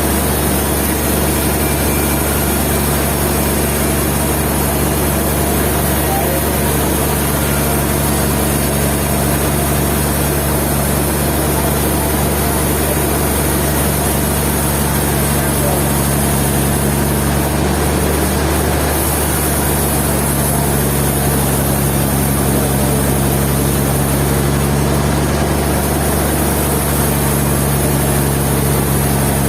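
Sawmill machinery running steadily, a constant low engine hum that holds the same level throughout.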